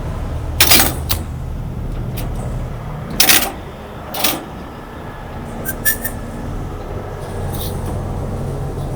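Heavy diesel truck engine idling with a steady low drone, broken by three short rushing bursts about a second, three and four seconds in.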